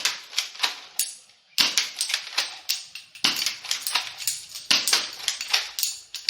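Kar98k-style bolt-action gel blaster toy rifle being fired and its bolt cycled again and again: a quick run of sharp plastic clacks and snaps, several a second, with short pauses about a second in and again about three seconds in.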